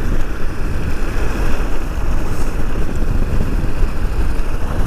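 Steady riding noise from a motorcycle on the move: wind rushing on the microphone over the running engine.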